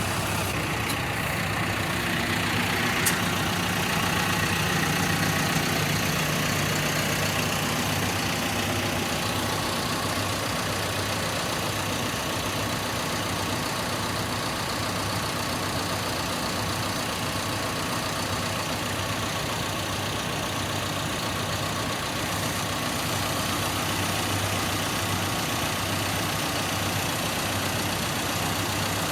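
Engine idling steadily, rising a little a few seconds in, with a single sharp click about three seconds in.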